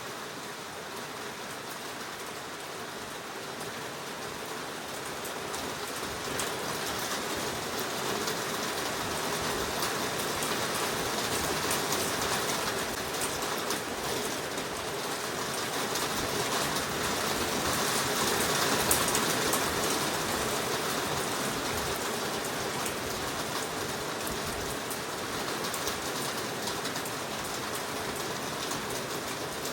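Heavy rain pouring down in a forest, a steady hiss of drops that grows louder from several seconds in and swells twice before easing slightly.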